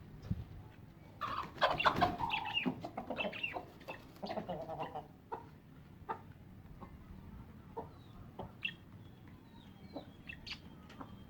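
Domestic hens clucking, loudest in a run of calls from about a second in to about five seconds, then scattered short clicks and faint high chirps.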